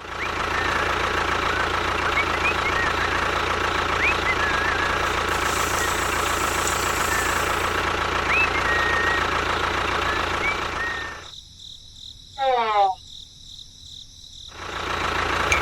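Small motor of a miniature DIY bulldozer running steadily for about eleven seconds, then cutting out. A brief gliding tone follows, and the motor starts running again near the end.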